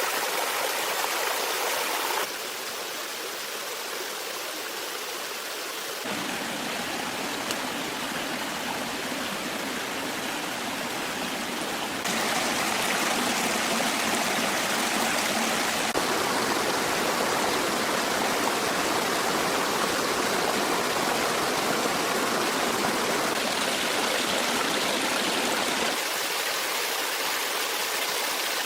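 Stream water flowing steadily, a continuous rushing sound. Its loudness and tone change abruptly several times, loudest through the second half.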